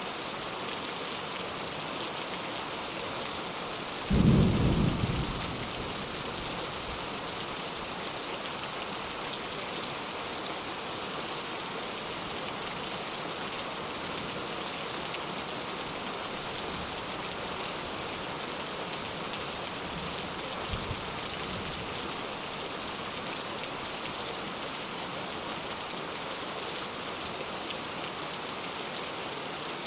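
Steady rain falling, with a loud low clap of thunder about four seconds in that rumbles off over a second or so, and a fainter distant rumble of thunder about twenty seconds in.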